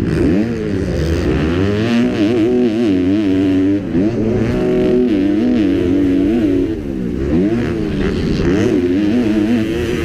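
Kawasaki motocross bike's engine revving hard, its pitch rising and falling again and again with throttle and gear changes; the revs drop for a moment about seven seconds in.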